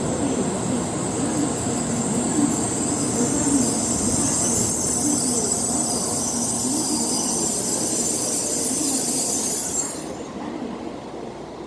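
Shinkansen Nozomi train pulling into the platform and braking, with a high squealing hiss over the running noise. The hiss cuts off abruptly near the end as the train comes to a stop.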